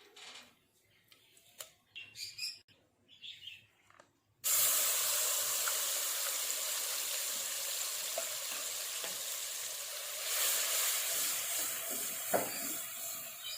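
Chicken shashlik frying in a hot pan. A few small clicks first, then about four seconds in a loud sizzle starts suddenly and carries on steadily.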